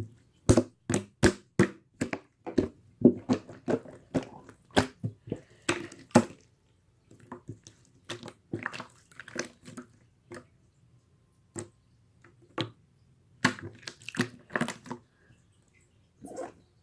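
An irregular run of short, sharp crunching and crackling clicks close to the microphone, some coming in quick clusters, with a few quieter pauses.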